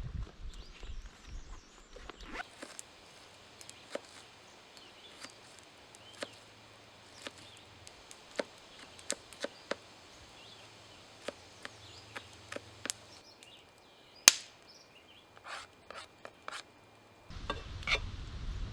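Wood being worked by hand: irregular sharp wooden clicks and knocks, one much louder about 14 seconds in. A low rumble comes in near the end.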